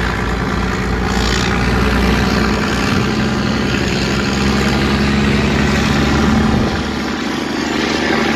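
A ship's engine running with a steady low rumble, which drops in level about seven seconds in.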